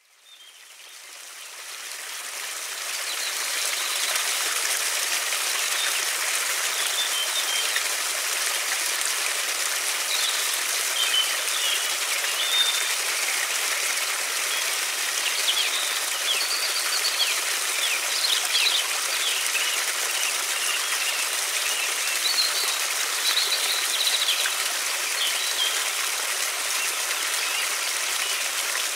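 River water rushing with a steady hiss, fading in from silence over the first few seconds. Small birds chirp now and then over it from about ten seconds in.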